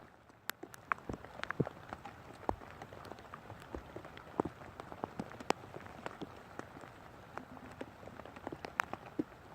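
Rain falling, with irregular sharp drops tapping close by, several a second, over a soft steady hiss.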